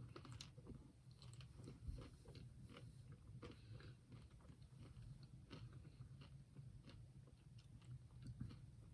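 Faint biting and chewing of a chocolate-coated Magnum double caramel ice cream bar, heard as many small, irregular clicks and crackles.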